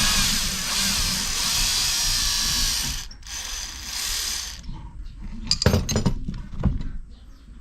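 Ratchet wrench running on engine fasteners during teardown: a rapid mechanical ratcheting for about three seconds, a shorter run after a brief pause, then a few sharp metal knocks near the end.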